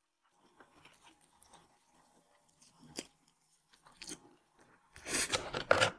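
A person chewing and biting food off a skewer close to the microphone, with small clicks, the sharpest about three seconds in. A louder burst of noise lasting about a second comes near the end.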